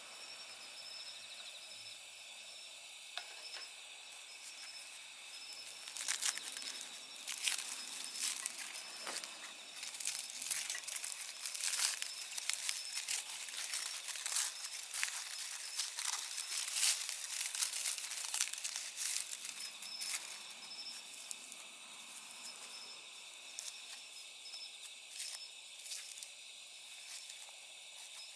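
Night insects, crickets among them, chirping steadily, with a dense stretch of sharp crackling from about six to twenty seconds in.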